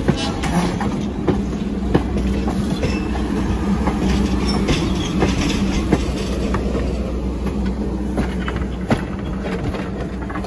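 Railroad passenger cars rolling past, wheels clicking over the rail joints about once a second over a steady low rumble.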